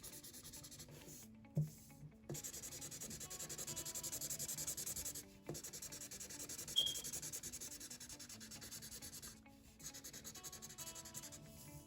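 Felt-tip marker scribbling rapidly back and forth on paper, coloring in a large area. The strokes come in runs with brief pauses.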